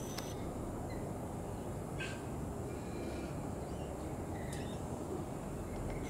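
Steady low outdoor rumble with a few short, high bird chirps: one at the very start, one about two seconds in and one about four and a half seconds in.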